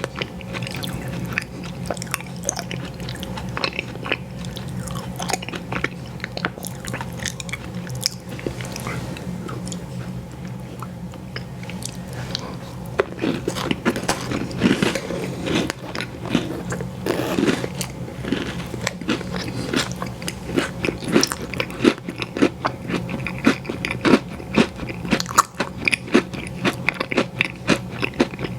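Close-miked eating of ice cream sandwiches: bites and chewing with many short, clicky mouth sounds, busier and louder in the second half, over a steady low hum.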